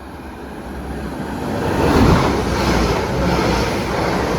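A pair of Class 197 diesel multiple units approaching, their running noise and low rumble growing louder to a peak about two seconds in, then holding steady.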